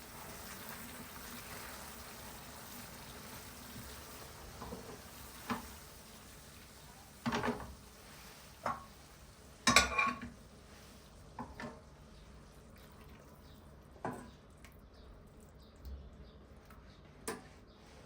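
Kitchen dishes and utensils clinking and clattering in a run of separate knocks, the loudest about ten seconds in, over a faint steady hiss that dies down in the first few seconds.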